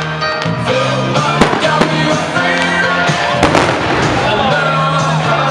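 Fireworks bursting with a few sharp bangs over music with a steady bass line, played loud during a fireworks show.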